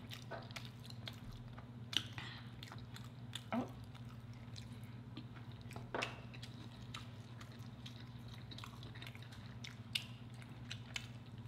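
Chewing and eating sounds from a burrito and a rice burrito bowl, with scattered short clicks from a fork in the bowl, over a steady low hum.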